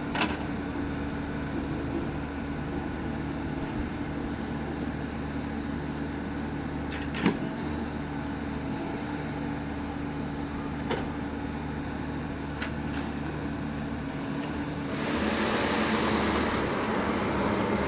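Excavator diesel engine running steadily, with a few sharp knocks. A louder rushing noise comes in about fifteen seconds in and lasts about two seconds.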